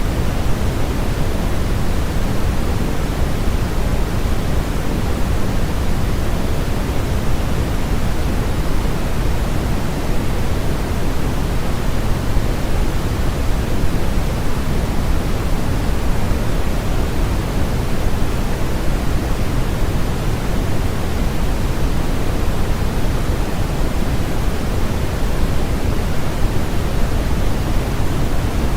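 Steady, unchanging sleep noise: a smooth rushing hiss with its weight in the low end and softer toward the top, closer to pink noise than flat white noise.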